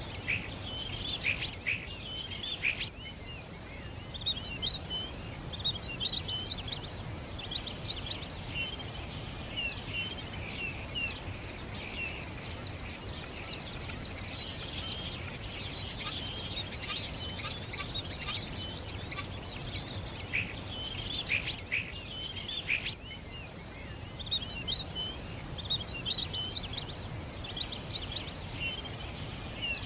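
Many small birds chirping, with a dense run of short, quick calls throughout and a steady low background noise beneath.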